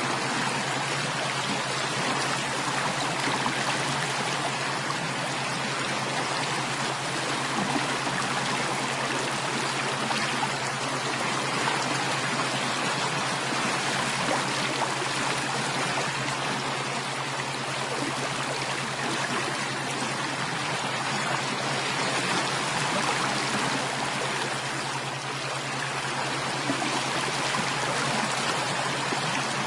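Running water of a stream, a steady unbroken rush with a low steady hum beneath it.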